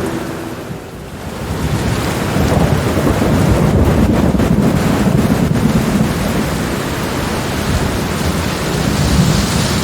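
Steady rain with a rolling rumble of thunder that dips briefly about a second in, then swells from about two seconds in and rolls on, easing a little toward the end.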